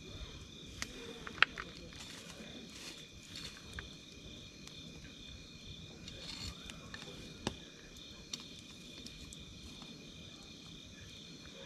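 Wood campfire crackling, with a few sharp pops, the loudest about a second and a half in, over a steady chorus of night insects chirping at two high pitches.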